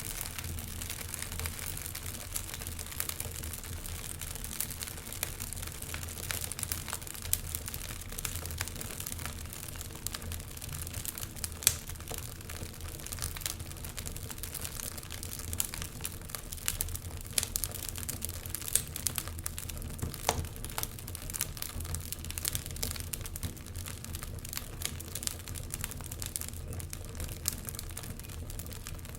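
Wood fire crackling, with many irregular sharp pops and snaps; the loudest pops come about twelve and twenty seconds in.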